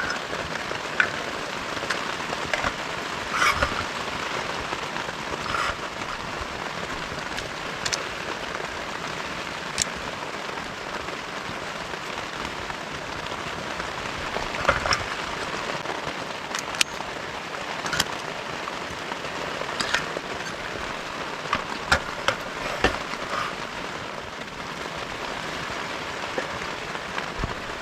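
Steady heavy rain falling, with louder single drops striking sharply every second or two.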